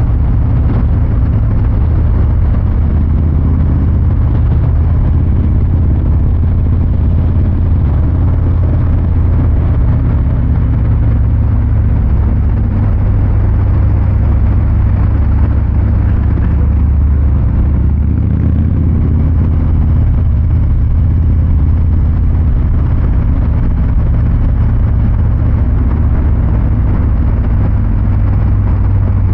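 Harley-Davidson Fat Boy 114's Milwaukee-Eight 114 V-twin running with a loud, low, steady exhaust note. The engine speed changes a little now and then.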